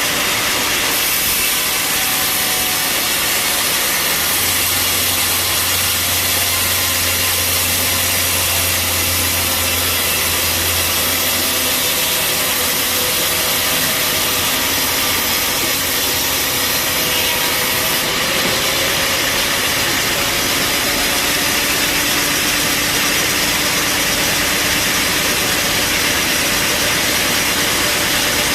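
Bandsaw sawmill running steadily, a continuous mechanical noise with a low hum underneath in the first half.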